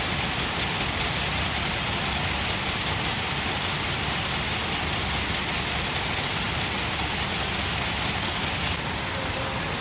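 Factory machinery running steadily, a dense mechanical din with a fast, even clatter in it. It eases slightly about nine seconds in.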